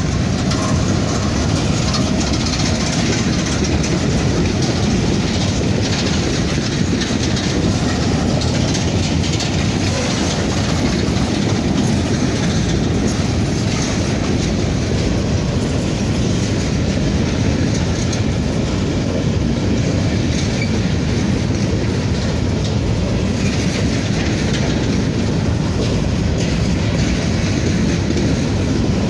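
Freight train of covered grain hoppers rolling past: a steady rumble from the cars, with the clickety-clack of wheels running over the rail joints.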